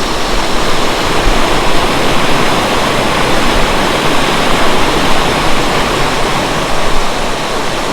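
Naga Falls, a mountain waterfall in monsoon-fed spate, pouring loudly and steadily as a fast torrent of water rushing over rocks.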